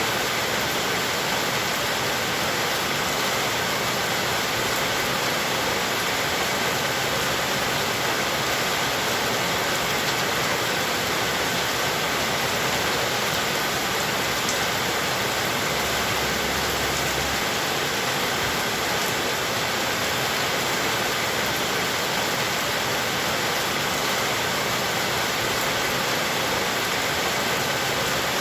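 Heavy rain falling steadily, a dense even hiss of rain with no letup.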